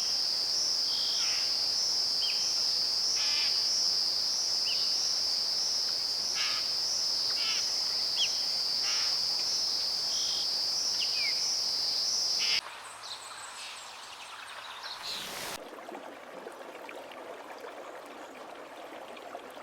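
A steady high-pitched insect chorus, crickets by their sound, with short scattered bird chirps over it, which cuts off abruptly about two-thirds of the way through. After a brief quieter stretch, a soft even rushing sound takes over.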